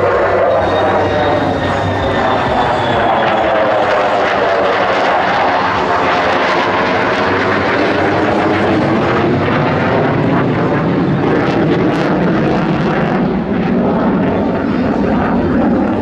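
F-35B Lightning II's single F135 afterburning turbofan making a loud, steady jet roar as it passes, with a phasing sweep that falls and rises again in the middle of the pass.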